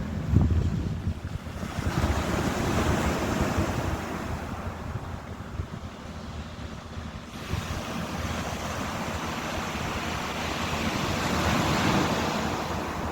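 Ocean surf: waves breaking and washing in, swelling about two seconds in and again in the second half, with a lull in between.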